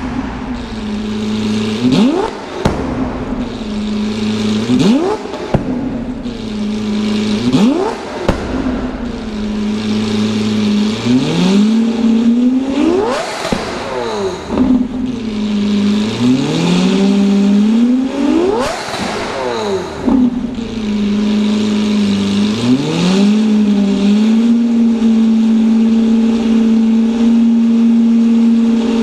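Lamborghini Aventador's V12 through an aftermarket valvetronic exhaust, revved about nine times in quick blips from idle, each rising and falling back. The two highest revs come in the middle, and the engine settles to a steady idle for the last several seconds.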